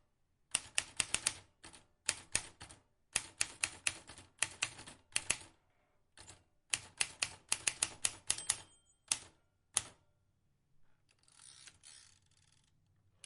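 Vintage manual typewriter keys struck in quick bursts of several sharp clicks, with short pauses between bursts. Near the end the clicks stop and a softer, longer rattle follows.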